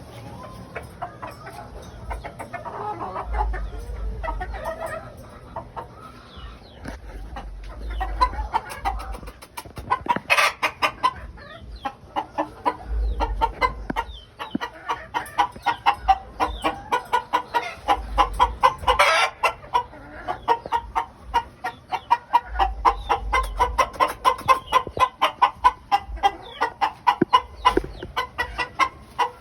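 A flock of game birds calling. Scattered calls give way, about a third of the way in, to a dense run of short, rapid clucking calls, with two louder calls standing out.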